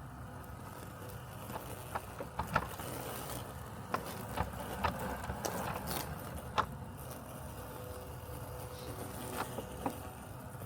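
Robotic lawn mower running with a steady mechanical hum, broken by a scatter of sharp ticks through the middle and a couple more near the end.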